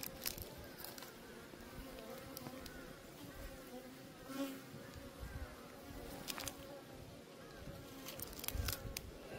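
A colony of native Korean honeybees buzzing steadily at a wild nest, with scattered sharp clicks and taps, a cluster of them near the end.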